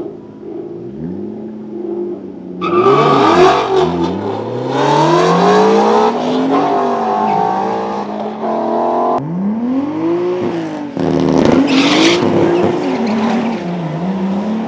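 Car engines revving hard, the pitch climbing and falling repeatedly, with more than one engine sounding at once and a loud rush of exhaust and tyre noise from about two and a half seconds in. The sound changes abruptly a couple of times.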